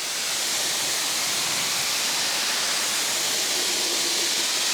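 Kränzle electric pressure washer spraying a steady jet of water against a boat hull, a constant hissing spray, rinsing off the iron-remover decontamination chemical before it dries.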